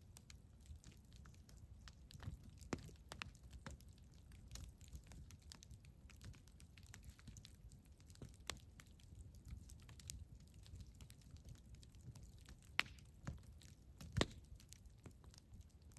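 Wood campfire crackling: many small irregular pops and snaps over a low rumble of the burning fire, with two louder pops about three-quarters of the way through.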